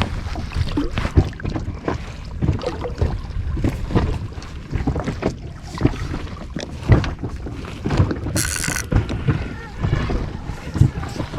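Wind buffeting the microphone on a small inflatable boat at sea, with irregular knocks and thumps against the boat and a brief hiss about eight seconds in.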